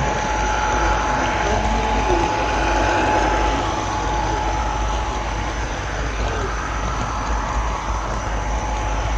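Model train running with a camera car on board: a steady rolling rumble of small wheels on rail joined by a constant motor whine.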